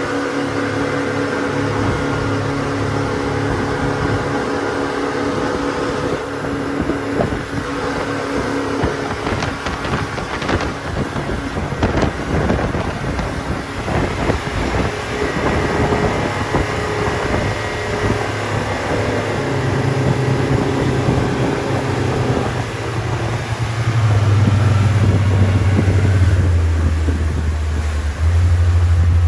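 Motorboat engine running under way, with the rush of wind and water. The engine note shifts and grows louder in the last few seconds.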